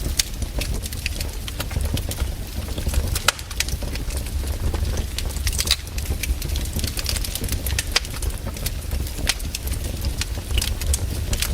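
Wood fire crackling in a fireplace: frequent sharp, irregular pops and snaps over a steady low sound of the burning.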